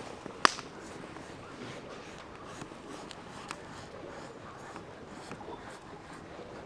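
Wood campfire crackling: a steady soft hiss with scattered small pops and one sharp, loud crack about half a second in.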